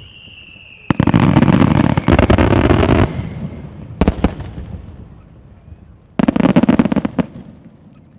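Aerial fireworks bursting: a whistling tone gives way about a second in to a loud rapid volley of bangs and crackling lasting about two seconds, then a few sharp single bangs, then a second rapid volley near the end.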